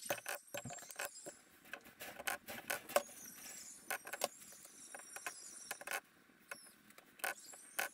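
Scattered light clicks, taps and small scrapes of metal gearbox parts and hand tools being handled, about a dozen irregular ticks over a few seconds, during a manual transmission reassembly.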